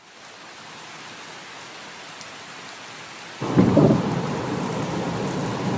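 Steady rain hiss fading in, then a rumble of thunder breaks in suddenly about three and a half seconds in and the heavier rain and rumble carry on.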